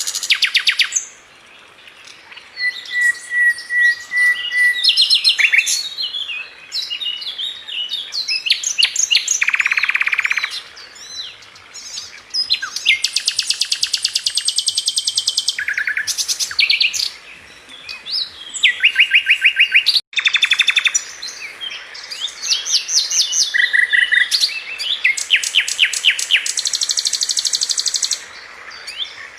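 Sikatan London flycatcher singing: varied phrases of rapid trills and fast runs of repeated notes, high and bright, with short pauses between phrases. The sound drops out for a moment about twenty seconds in.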